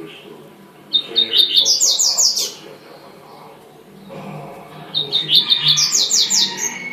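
Double-collared seedeater (coleiro) singing its tui-tui song: two phrases, each a fast run of sharp high notes climbing in pitch and lasting about a second and a half, the first about a second in and the second near the end.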